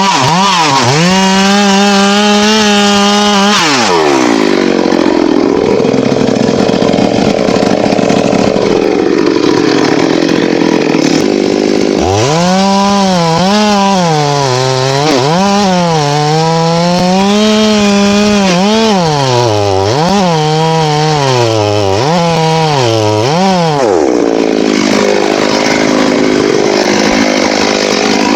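Two-stroke chainsaw working teak wood. Its engine pulls down and holds a lower, rougher note through a cut, then revs up and down several times at high throttle, and near the end drops back into a cut.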